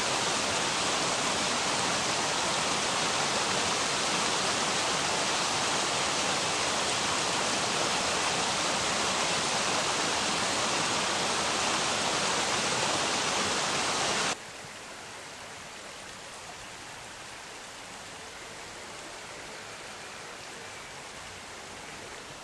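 Steady rushing of river water, an even hiss; about 14 seconds in it cuts abruptly to a much quieter version of the same water noise.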